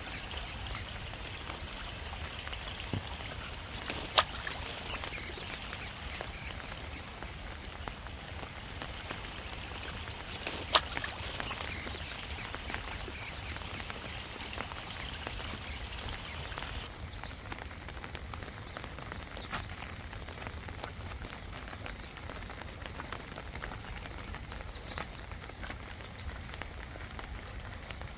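Steady rain falling, with a bird repeating short, high, piercing notes about three times a second in two long bouts.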